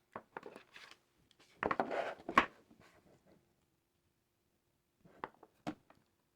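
Hands handling a plastic toy: scattered rustles and light clicks, with a louder burst of rustling and a sharp click about two seconds in, then a few faint clicks near the end.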